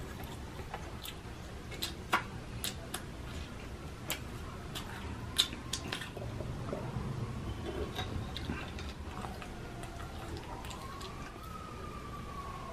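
Close-up chewing and biting into McDonald's chicken nuggets, with irregular sharp crunches and soft mouth sounds. A distant siren rises faintly in the background near the end.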